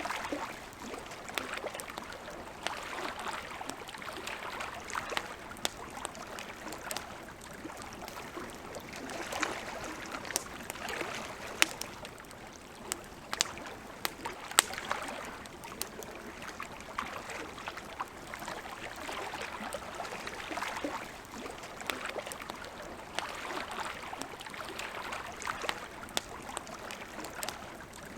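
Wood campfire crackling, with frequent small sharp pops and a few louder ones in the middle, over a steady wash of lake water lapping that swells and eases every couple of seconds.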